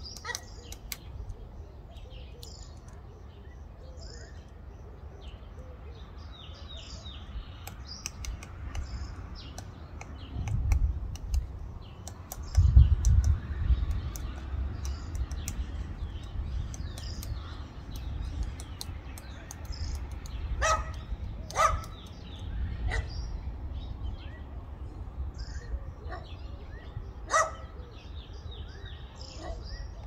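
Birds chirping in many short, high calls throughout. A low rumble rises about a third of the way in and is the loudest part. A few sharp, short calls stand out in the last third.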